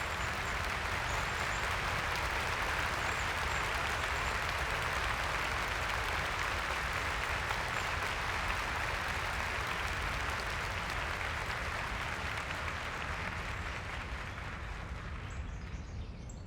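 A steady, even rushing noise with a few faint bird chirps, fading out near the end.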